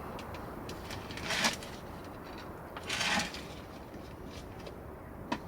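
Food-preparation handling sounds: two brief rustling scrapes, about one and three seconds in, and a sharp click near the end.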